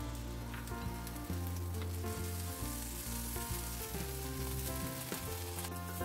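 Green chillies sizzling as they fry in a steel kadhai, with a wooden spatula stirring them through the second half. Soft background music runs underneath.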